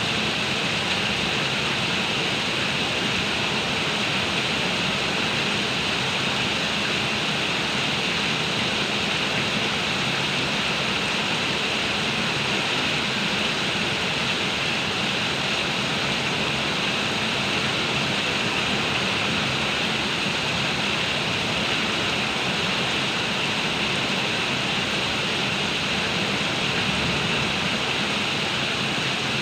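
Heavy downpour: dense rain falling in a steady, unbroken hiss with no let-up.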